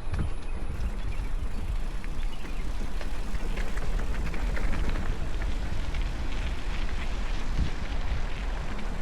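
Mountain bike riding over a rough, rocky trail: wind rumbling on the microphone, with tyres crunching and the bike rattling in many small clicks.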